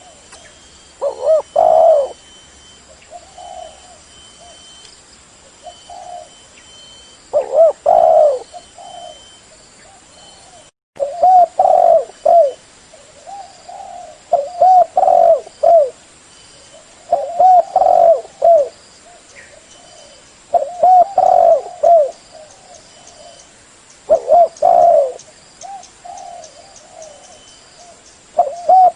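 Spotted dove (tekukur) cooing: a run of short, repeated coo phrases, one about every three seconds. The sound briefly cuts out about eleven seconds in.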